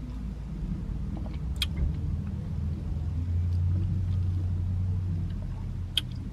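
Low steady rumble inside the cabin of a stationary car, typical of its engine idling, swelling slightly midway. Two faint clicks, about a second and a half in and near the end.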